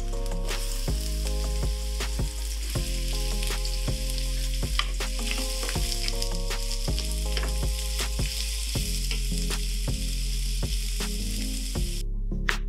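Sliced garlic and chopped onion sizzling in olive oil in a frying pan, stirred with a wooden spatula, under background music. The sizzling cuts off near the end.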